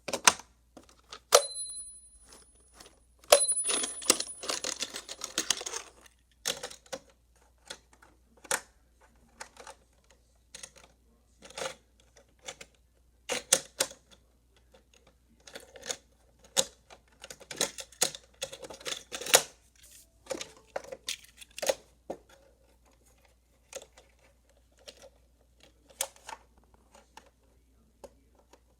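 Die-cast Hot Wheels toy cars handled on a plastic track playset: irregular clicks, taps and knocks of metal and plastic. There is a denser rolling clatter from about three to six seconds in, and two brief high pings in the first few seconds.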